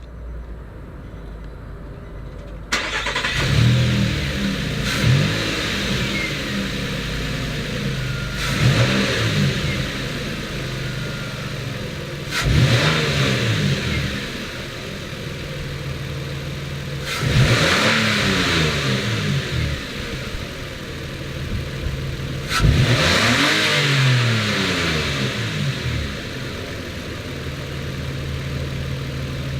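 2013 Nissan NV2500 van engine starting about three seconds in and flaring up. It then idles and is revved four more times, each rev rising in pitch and dropping back to a steady idle.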